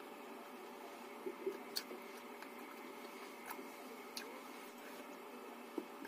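Faint eating sounds of rice and fish curry eaten by hand: soft wet mouth smacks and a few sharp clicks while chewing, over a steady faint hum.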